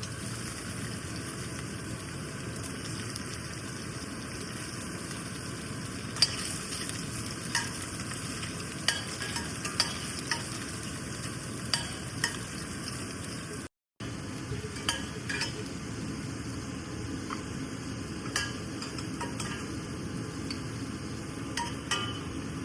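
Food sizzling as it fries in a pan, stirred with a spoon that knocks and scrapes against the pan several times, more often in the second half. The sizzle breaks off for a moment about 14 seconds in, then carries on.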